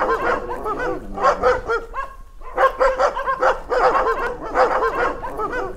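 Several dogs barking in rapid, overlapping bursts, several barks a second. The dogs are hostile and crowding round the car.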